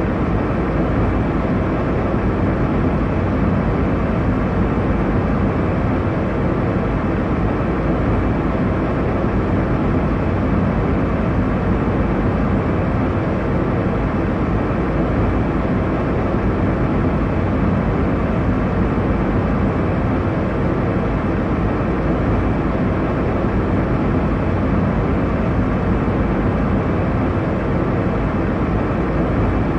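Steady airliner cabin noise: an even engine and airflow rumble with a softer hiss above, constant throughout.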